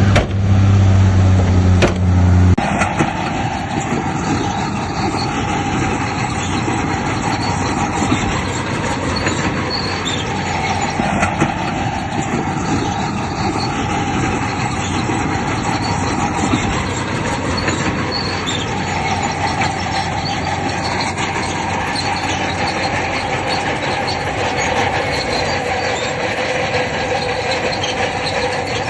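Crawler bulldozer working, its steel tracks squealing and clanking over the diesel engine. A low steady hum cuts off about two and a half seconds in, leaving the grinding squeal of the tracks.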